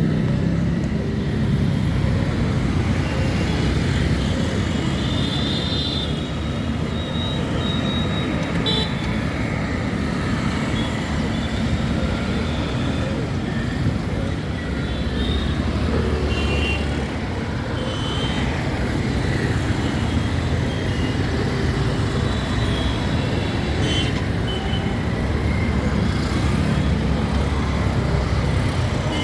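Urban road traffic noise: a steady rumble of passing vehicles, with short high-pitched tones now and then and a single sharp click about nine seconds in.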